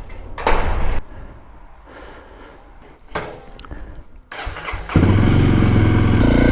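Honda CRF300L single-cylinder motorcycle engine starting about five seconds in and settling into a steady idle, after a couple of short knocks and rustles.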